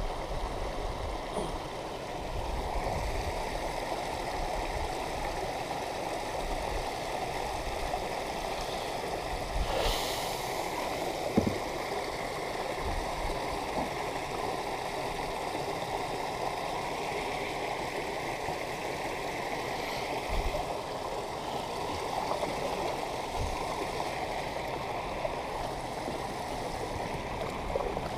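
Steady sound of flowing, trickling water close by, with a few faint knocks.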